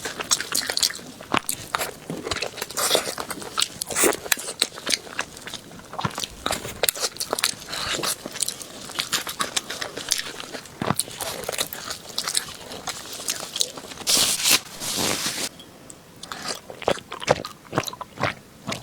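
Close-up eating sounds: irregular crunching bites and chewing of crisp food, with many sharp crackles, and two brief louder hissing rushes about 14 seconds in.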